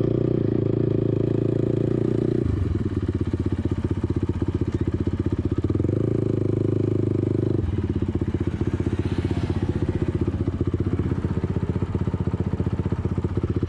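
ATV engine running on throttle, then easing off to a slower, choppy pulse about two and a half seconds in. It picks up smoothly again for a second or so past the middle, then drops back to the uneven pulse.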